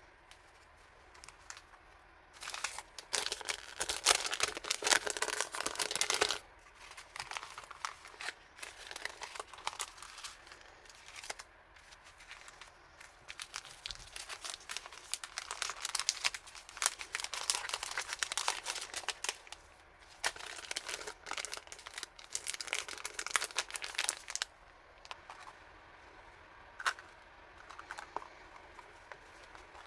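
Packaging being crinkled and torn open by hand, in dense stretches of crackling with a short pause about 6 seconds in, dying down to a few scattered rustles and clicks near the end.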